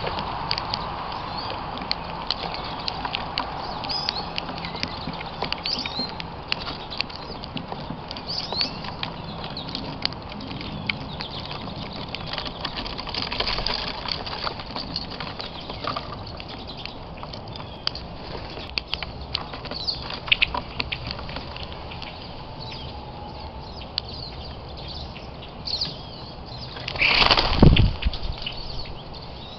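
Birds at a bird camera: many quick taps and scrapes with short high chirps. About 27 seconds in comes a loud whoosh that falls in pitch over about a second.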